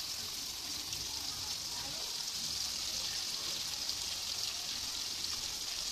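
Potatoes, onions and chopped tomatoes frying in oil in a kadai, with a steady high sizzle, just after ginger-garlic paste has been added.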